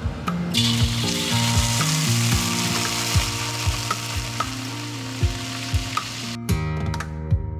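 Onion paste sizzling as it hits hot oil in a wok, starting about half a second in and cutting off suddenly near the end. Guitar music plays underneath.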